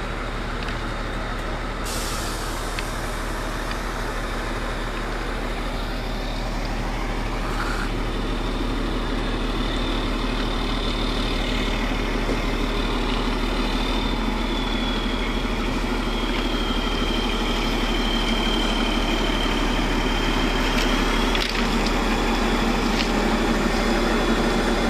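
A large engine running steadily under a high whine that wavers slightly in pitch, growing a little louder, with a short hiss about two seconds in.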